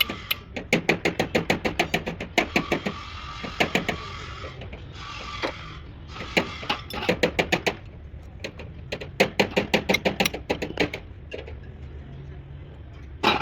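Rapid runs of sharp metallic taps, about eight a second, in several bursts with short pauses, from hand-tool work on the steering box; during one run the metal rings with a steady tone.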